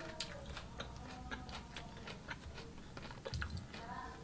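Faint, irregular small clicks of chewing a piece of crispy fried tofu, its battered crust crunching between the teeth.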